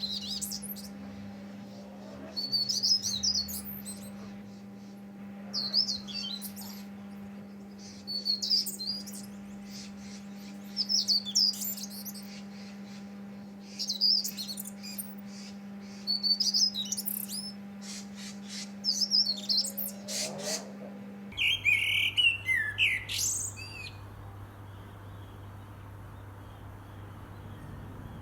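A songbird singing short, high, twittering phrases repeated every two to three seconds over a steady low hum. After about 21 seconds the hum changes and the next phrase comes lower and louder.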